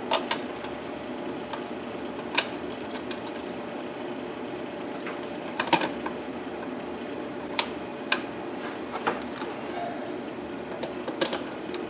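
Scattered sharp clicks and light taps from handling small wiring parts and hand tools, a few seconds apart, over a steady low hum.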